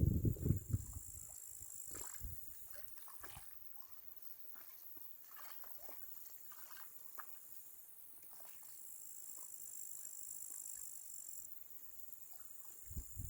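Crickets chirping in a steady high-pitched trill that swells and fades, with faint scattered clicks. A few loud low thumps come in the first second.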